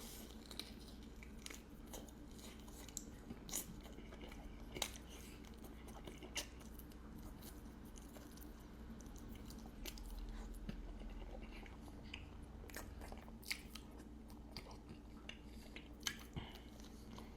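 A person chewing food close to the microphone, with soft, scattered mouth clicks and smacks.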